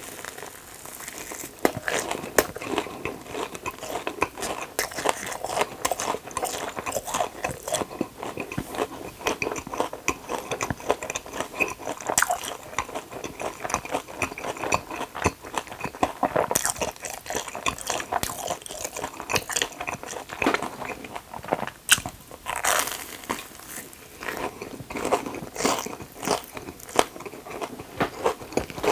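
Close-miked crunching bites and chewing of a crispy battered Korean hot dog (Myungrang hot dog), crackling continuously at an uneven pace.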